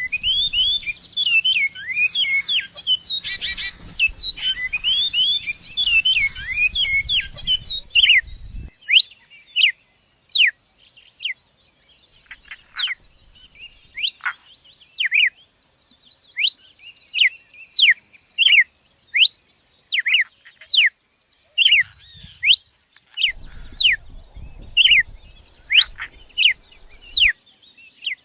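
Small bird chirping. A busy, dense run of overlapping chirps for the first eight seconds or so, then single sharp, high chirps sliding downward, about one a second.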